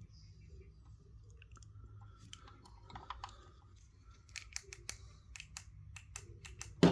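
Light clicks and taps of hands handling a diecast model car, a faint scattered few at first, then a quick run of sharp ticks in the second half over a low steady hum.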